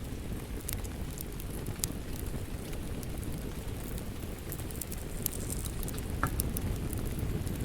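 Wood fire crackling, with scattered sharp pops, over a steady rushing patter of rain.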